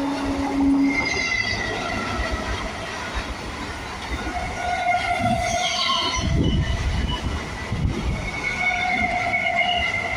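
EMU local train passing: its horn cuts off about a second in, then the wheels squeal on the rails with a heavy clatter of wheels over rail joints midway.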